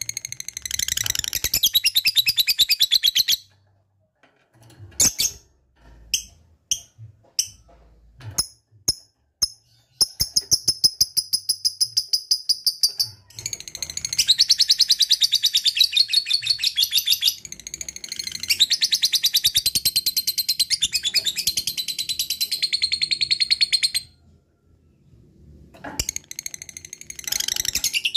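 Lovebird 'ngekek' song: long runs of rapid, high-pitched chattering trill, the longest lasting about ten seconds, broken by pauses and a few short separate chirps.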